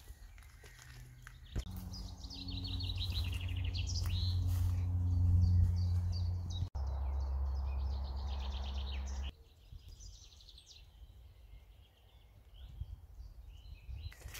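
Songbirds singing, with trilling phrases of rapidly repeated notes, over a low steady rumble that starts abruptly about a second and a half in and stops abruptly near nine seconds.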